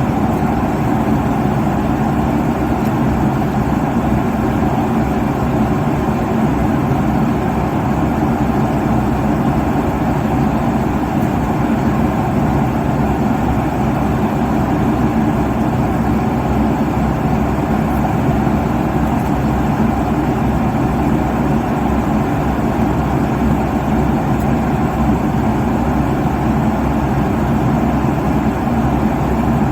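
Airplane cabin noise at cruise altitude: a steady low rumble and rush of engine and airflow noise that does not change.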